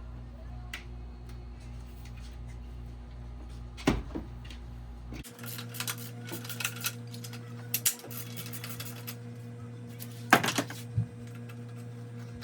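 Metal hand tools and car parts clinking and clanking in irregular clicks during engine-bay work, loudest about four seconds in and again about ten seconds in, over a steady low hum that changes abruptly about five seconds in.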